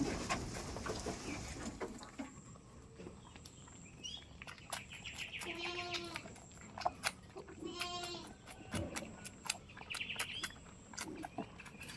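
Goats bleating: three quavering calls, about two seconds apart in the second half, with short clicks and knocks between them.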